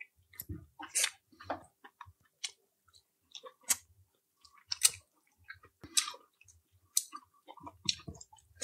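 A person chewing food with wet mouth smacks and clicks, roughly one a second.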